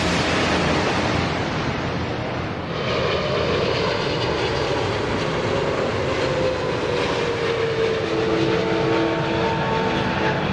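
Boeing 777-300ER's GE90 turbofan engines roaring as the airliner comes in to land, with a whine that slowly falls in pitch as it passes.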